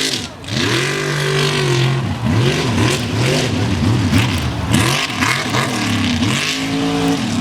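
Supercharged mega truck engine revving hard at wide-open throttle. After a brief drop at the start it holds a high rev, then the pitch swings up and down about twice a second as the throttle is pumped, and holds high again near the end.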